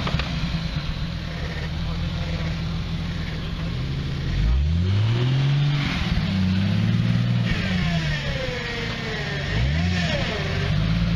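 A motor vehicle's engine revving repeatedly, its pitch rising and falling in several surges, typical of an off-road car working hard over rough ground.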